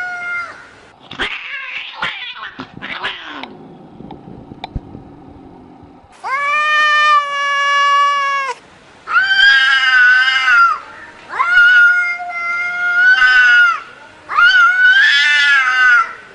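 A domestic cat yowling in four long, drawn-out calls, each held for about two seconds with a slightly wavering pitch. Before the first call, near the start, there are a few seconds of short rustling and knocking noises.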